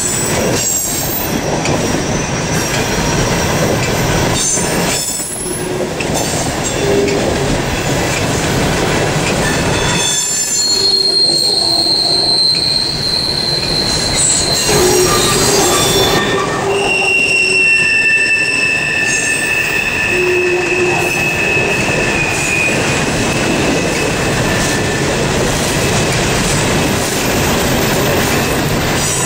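Norfolk Southern freight train's open hopper cars rolling past with a continuous rumble and clatter of wheels on rail. Long, steady, high-pitched wheel squeals rise over it, the clearest from about a third of the way in and again past the middle.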